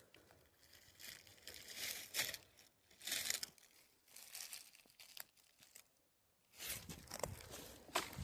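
Footsteps crunching on a woodland trail: faint, uneven crunches about once a second, with a brief pause about six seconds in.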